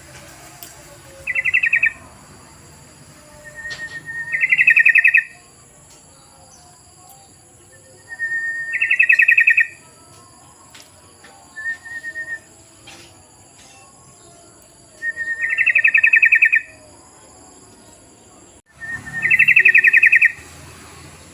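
Yellow-vented bulbul (trucukan) calling: six short bubbly, chattering phrases, several starting with a brief plain note, repeated every three to four seconds.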